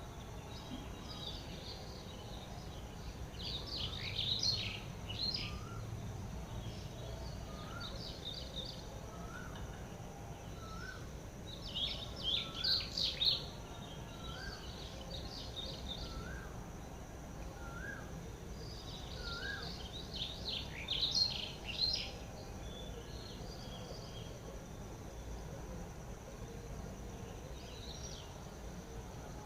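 Wild birds chirping in three short bursts of high, quick notes, with a lower short rising whistle repeated about once a second through the middle, over a steady background of outdoor noise.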